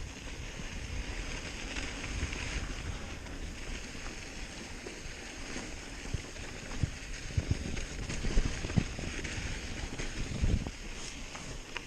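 Wind buffeting the microphone over the rumble of a hardtail mountain bike's tyres on a dirt trail, with sharp knocks and rattles from bumps, more of them in the second half.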